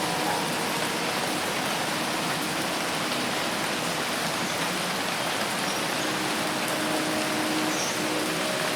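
Dense rain falling steadily in a forest: an even, unbroken hiss of drops. Faint steady tones come in over the last few seconds.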